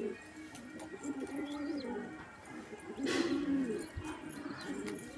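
Domestic pigeons cooing, one soft warbling coo after another, with a brief scuffling noise about three seconds in.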